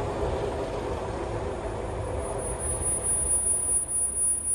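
Charter train running away along the track, its low rumble fading as the coaches recede. A steady high-pitched whine starts about halfway through.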